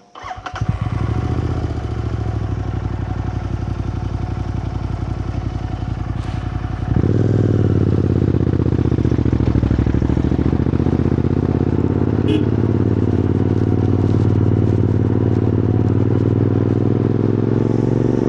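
Royal Enfield GT650's 648 cc parallel-twin engine with an aftermarket Powerrage exhaust starting up and settling into a steady idle. About seven seconds in, the exhaust note gets louder and stays at that level.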